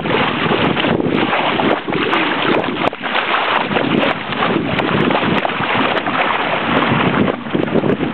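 Wind blowing across the microphone aboard a sailboat under way in a fairly steady, slightly gusty breeze: a loud, even rushing that swells and dips slightly.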